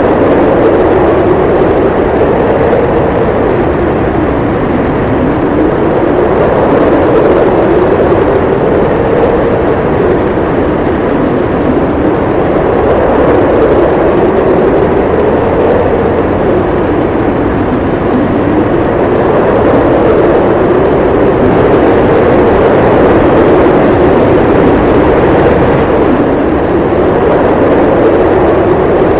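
Howling snowstorm wind: a loud, steady rush with a moaning tone that slowly rises and falls in pitch.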